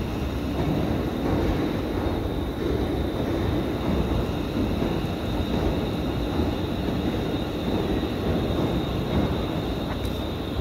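Class 380 electric multiple unit running slowly past along the platform: a steady rumble with a faint high whine, with no sudden events.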